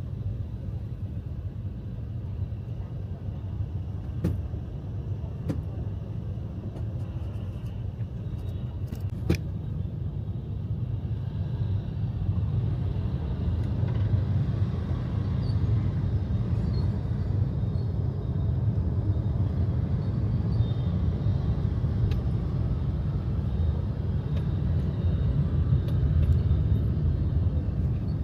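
Steady low road-traffic rumble, growing louder about halfway through, with a few sharp clicks in the first third.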